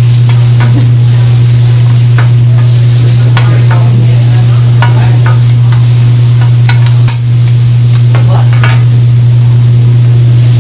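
Food sizzling on a hot restaurant grill, with scattered clicks of utensils and a loud steady low hum underneath.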